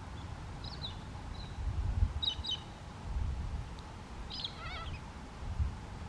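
Faint calls of wild birds: a few short high chirps and, about two thirds of the way through, a quick warbling phrase. Low rumbles come and go underneath, typical of wind on the microphone.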